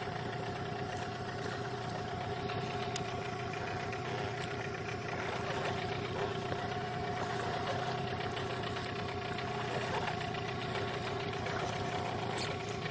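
Boat outboard motor running steadily at even revs during its break-in, a constant hum whose pitch holds throughout.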